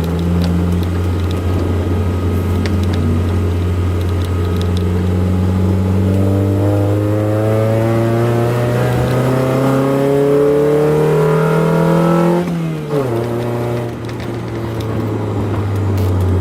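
Honda F22B1 2.2-litre four-cylinder VTEC engine pulling under acceleration: its pitch climbs steadily for about ten seconds, then drops sharply, then starts to rise again near the end.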